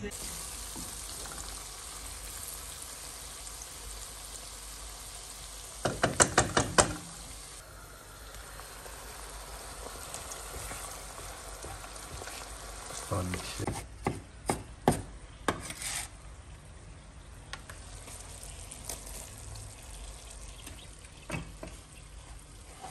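Salame and garlic frying in a pan with a steady sizzle, stirred with a spatula. A quick run of sharp knocks comes about six seconds in, and several more separate knocks come between about 13 and 16 seconds in.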